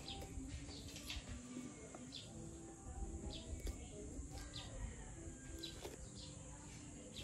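Faint bird calls: short high chirps every second or so, over low cooing notes that come back again and again.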